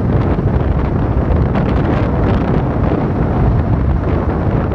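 Wind buffeting the microphone on a moving motorcycle: a loud, steady rush.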